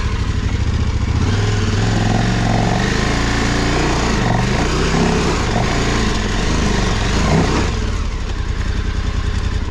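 KTM 1290 Super Adventure R's V-twin engine running hard under load, the revs rising and falling as the big adventure bike is ridden up a steep, rough climb.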